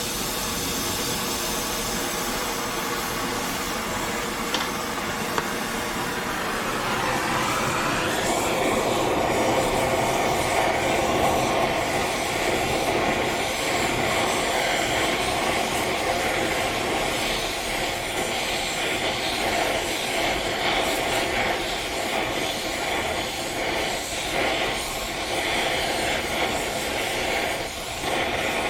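Gas torch flame roaring steadily with a rushing hiss, growing louder with a rising sweep about seven or eight seconds in, as it heats steel T-nuts for case hardening before an oil quench.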